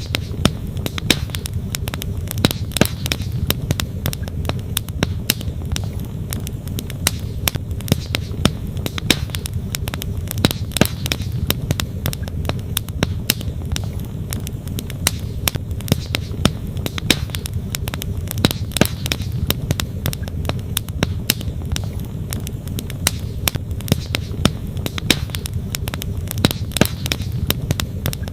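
Wood campfire crackling and popping in many sharp, irregular snaps, over the steady low rush of a flowing creek.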